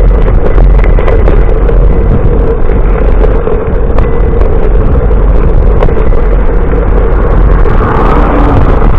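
Loud, steady wind rumble on the microphone of a camera riding on a moving bicycle, mixed with road noise.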